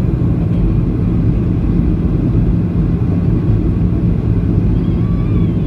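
Steady low rumble of cabin noise inside a Boeing 737-800 on approach: airflow and engine hum, with a constant low drone.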